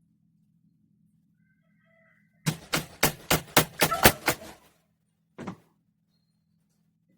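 A quick run of about eight sharp knocks, roughly four a second, then a single knock about a second later, over a faint low steady hum.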